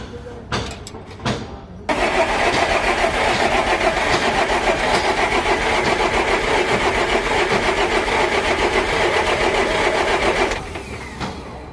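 Diesel engine of a FAW 280 truck being started: a loud, fast, even pulsing begins suddenly about two seconds in, runs about eight seconds, then dies away near the end. A few knocks come before it.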